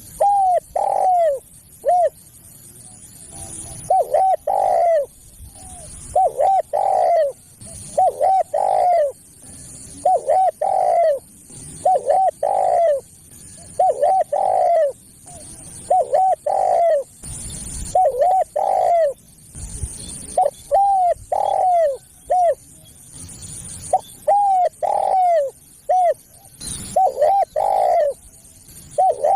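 Spotted dove (tekukur) cooing: a repeated phrase of a few short coos ending in a longer, falling coo, about one phrase every two seconds. It is a clear recorded lure call, used to draw wild doves in.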